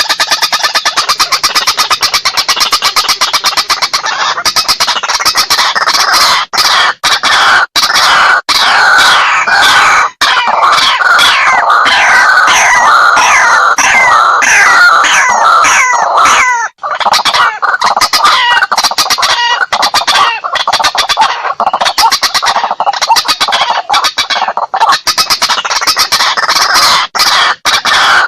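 White-breasted waterhen calls played as a loud hunting lure recording: a dense string of harsh, rapidly repeated 'kruak' notes, with a brief break about two-thirds of the way through.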